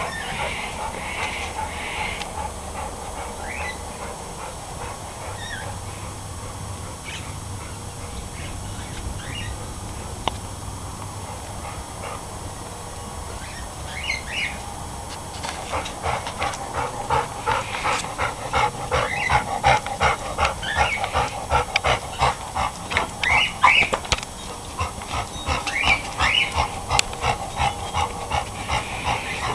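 A dog vocalizing: a few short high calls at first, then from about halfway a fast, steady run of short sounds, several a second, louder than before.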